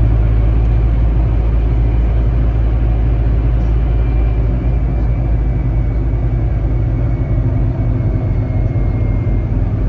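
Scania K310IB bus engine running steadily under way, a strong low rumble with a faint high whine that slowly falls in pitch.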